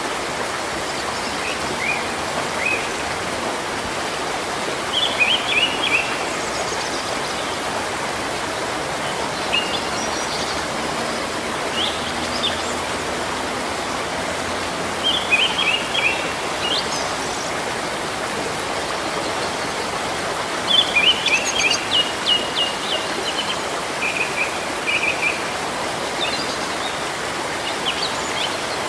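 Steady rain falling on palm fronds and trees, with birds calling in short chirping phrases every few seconds.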